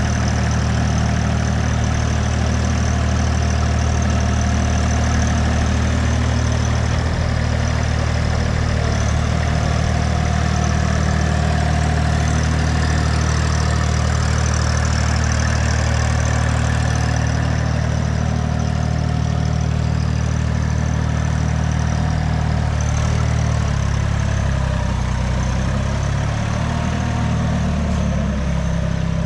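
Farmtrac 25H compact tractor's diesel engine running steadily, its speed shifting up and down a little near the end.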